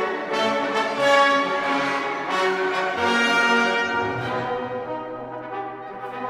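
Orchestral background music with brass, French horn prominent, playing sustained notes over a low held bass note.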